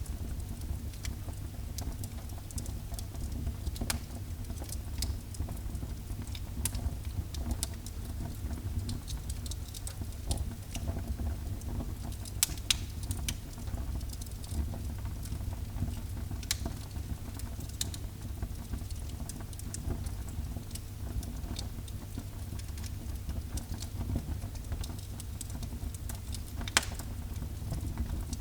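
Wood fire burning in a fireplace: a steady low rumble with scattered crackles and pops, two sharper pops about halfway through and near the end.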